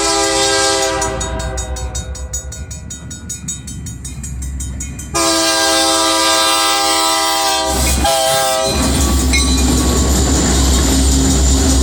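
Train locomotive horn sounding two long blasts and a short one, the warning pattern for a road crossing. The locomotive then passes close by with a heavy, steady rumble of engine and rail noise.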